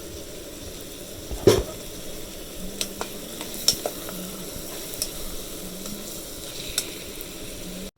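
Chicken sizzling in a hot pot with soy sauce while being stirred, a steady hiss with scattered knocks of the stirring utensil against the pot, the loudest about one and a half seconds in.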